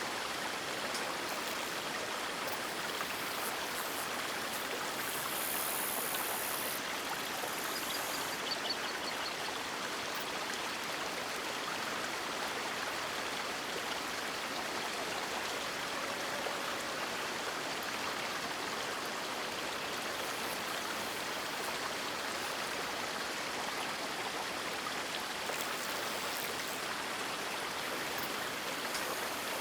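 River water flowing in a steady, even rush, with no rise or fall in level.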